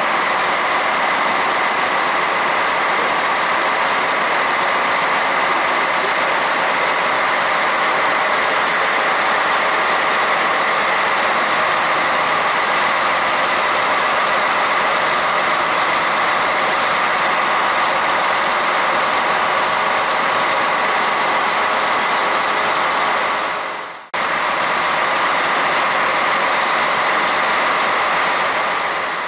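CAF Urbos 3 tram running, a loud steady rolling noise with a faint steady whine, broken by a sudden cut about 24 seconds in.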